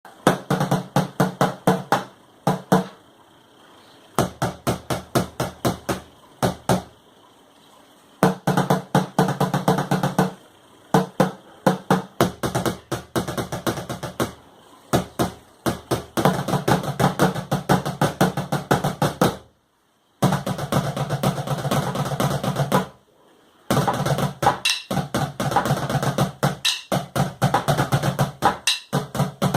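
Plastic buckets played as drums in a rhythmic percussion piece: phrases of quick, evenly spaced strikes broken by short pauses, with two brief full stops about two-thirds of the way through.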